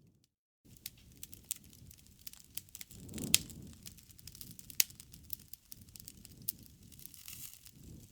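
Bonfire crackling: a steady low rumble of burning wood with many small snaps and two sharp louder pops. The sound cuts out completely for about half a second at the start.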